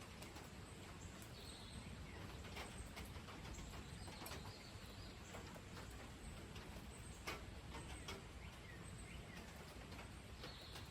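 Light, steady rain with scattered drips and taps, and a few brief, faint bird chirps.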